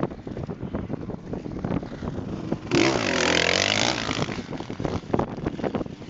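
A motocross bike's engine revving loud and close for about a second and a half, its pitch dipping and then climbing again before fading, with wind buffeting the microphone.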